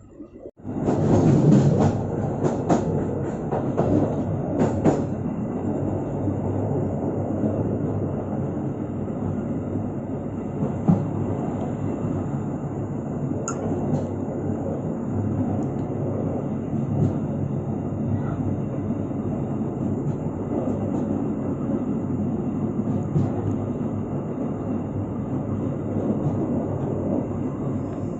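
Gaya Baru Malam Selatan passenger train running on the track, heard from the rear of the train: a steady rumble of wheels on rails. A cluster of sharp clicks comes in the first few seconds, with a few scattered clicks later.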